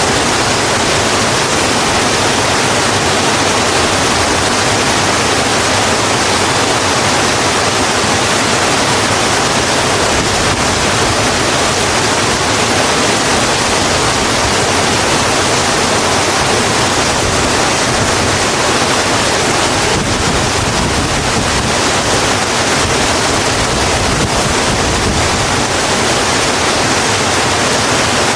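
Steady heavy rain falling, an even hiss with no pauses or drops standing out.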